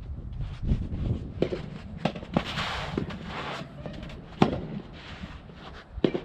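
Soft tennis balls being struck and bouncing: a series of sharp, irregular pops, the loudest about four and a half seconds in. Strong wind buffets the microphone with a low rumble throughout.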